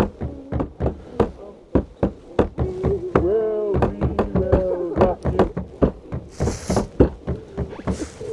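Rapid, irregular sharp knocks, two to four a second. A drawn-out voice calls in the middle.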